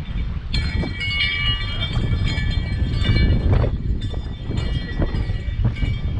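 Strong wind buffeting the microphone in a low, gusting rumble, with several high steady ringing tones and sharp clicks over it from about half a second in.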